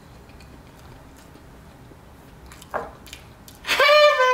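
Quiet mouth sounds of someone eating and chewing. Near the end comes a short, loud, high-pitched tone, steady in pitch, as a can of whipped cream is raised to the mouth.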